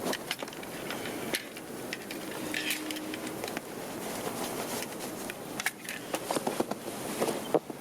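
Footsteps crunching through deep fresh snow, irregular crunches and creaks at a walking pace.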